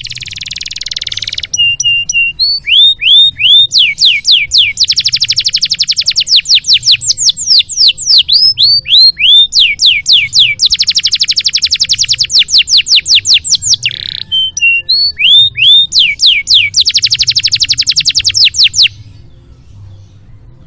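A domestic canary singing a long song. It opens with a buzzy note, moves into series of quick falling slurred notes, and breaks into very fast, dense trills several times. The song stops about a second before the end.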